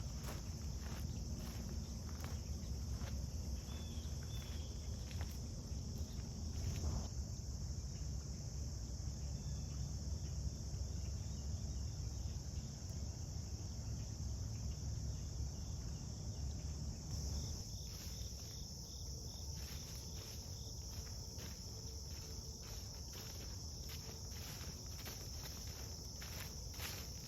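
A steady, high-pitched chorus of insects such as crickets, over a person's footsteps while walking. The chorus grows stronger about two-thirds of the way through.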